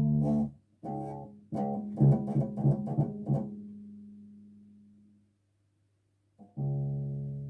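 Bass guitar played alone: a few plucked notes and a quick run, then a last note ringing out and dying away to silence. A fresh note starts near the end.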